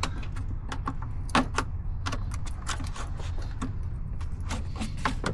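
Irregular clicks and small knocks of hands and tools working at a stiff, cold air-intake duct and hose in a truck's engine bay, the sharpest knock about a second and a half in, over a steady low hum.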